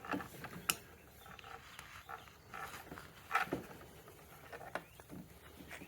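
A few faint, scattered clicks and knocks from small parts and a hand tool being handled on a scooter's handlebar, the loudest about three and a half seconds in.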